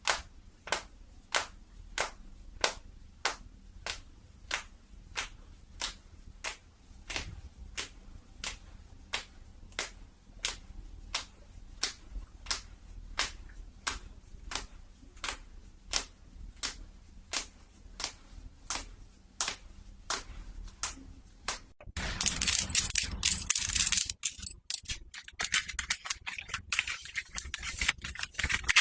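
Close-up ASMR trigger sounds: a steady run of sharp clicks, about one and a half a second, then, about 22 seconds in, a dense crinkly rustling that lasts to the end.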